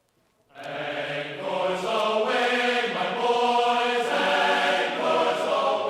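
Choral music: several voices singing long held chords that change every second or so, starting about half a second in.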